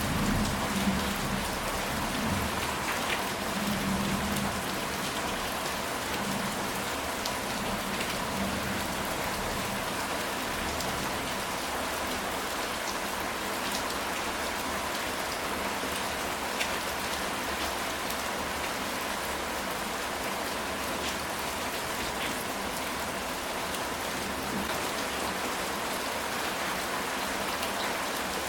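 Steady rain falling on a ceramic-tile roof, with scattered individual drop clicks. There are low rumbles during the first several seconds.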